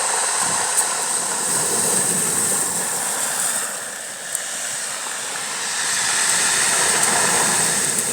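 Waves washing onto the shore of a bay: a steady rush of surf that eases off about halfway through and then builds again.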